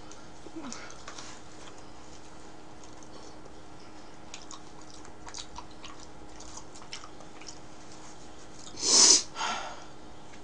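Close-miked chewing of pizza crust, with faint wet mouth clicks. Near the end come two short rushes of breath, the first loud.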